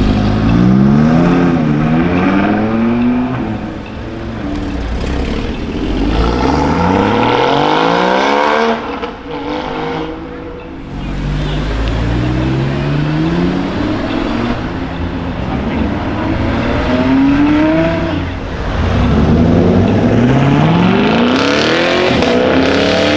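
Performance car engines accelerating hard away in several separate runs, the engine note climbing in pitch through each gear, dropping at the shift and climbing again.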